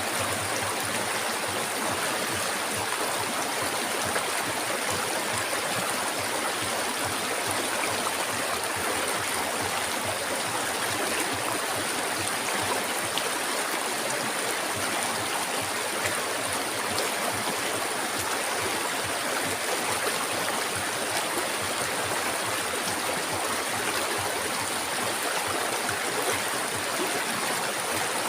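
River water flowing steadily over rocks, an even rushing and gurgling with no breaks.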